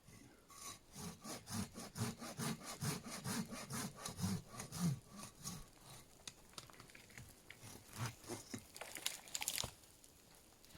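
A hand saw cutting through wood in quick back-and-forth strokes, about three a second for some five seconds, then slower, scattered strokes and a short scrape near the end.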